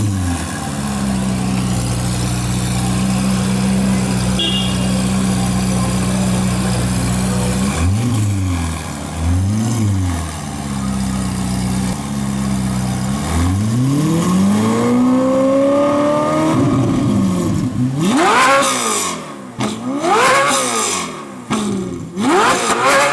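Ferrari 458 Italia's naturally aspirated V8 through an iPE straight-pipe exhaust, idling steadily, then blipped twice. It idles again, then pulls one long rising rev, followed by three sharp high revs that snap up and fall back near the end.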